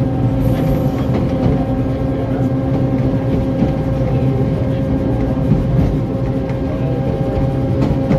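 Narrow-gauge train running along the track, heard from the locomotive cab: a steady engine drone with a held tone over the low rumble of wheels on rail.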